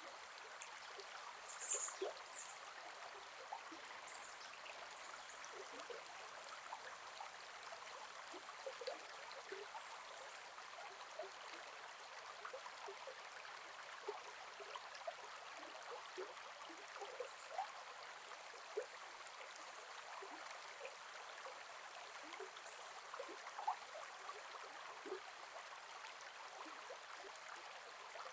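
A gentle forest river flowing, with a steady rush of water and frequent small gurgles and plinks. A brief high-pitched sound stands out about two seconds in.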